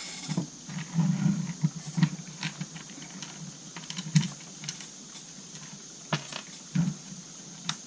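Irregular light clicks and taps of small plastic and metal parts being handled and fitted on a chainsaw's carburetor and throttle linkage.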